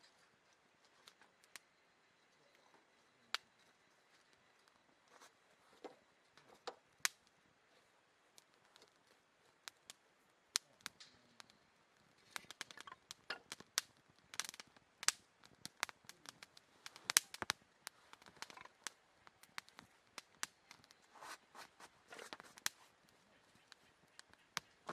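Wood fire crackling, with irregular sharp pops and snaps that come sparsely at first and then thicker from about halfway through.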